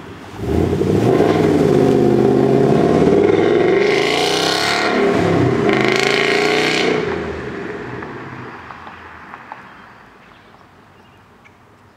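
Ford Coyote 5.0 V8 of a 2011 Mustang GT, running on factory shorty headers and a custom single-chamber exhaust, comes on loud about half a second in and pulls hard, with its pitch rising and falling. It surges twice near the middle, then fades away over about three seconds.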